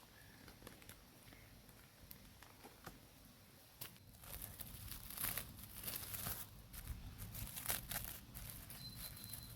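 Crinkling and rustling of something being handled: scattered faint clicks at first, becoming a busier, louder run of crackly rustles about four seconds in.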